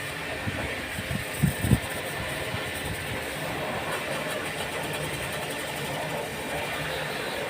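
Steady machine-like running noise, with a couple of dull knocks about one and a half seconds in.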